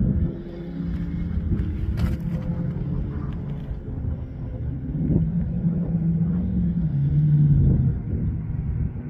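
Engine of a competition off-road 4x4 driving hard, its note rising and falling with the throttle. It is loudest about seven seconds in, then drops in pitch. A single sharp click comes about two seconds in.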